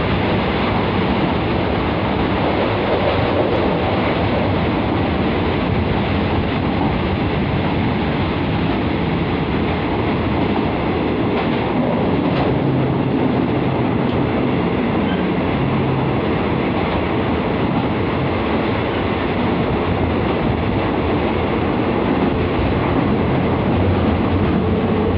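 Loud, steady rumble of a passenger train running through a long tunnel, heard from inside a carriage with its windows open: wheels on rail and the running gear of the coach.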